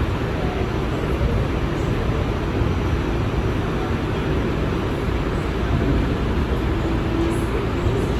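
New York City subway train running along the track, heard from inside the car as a steady rumble and rail noise.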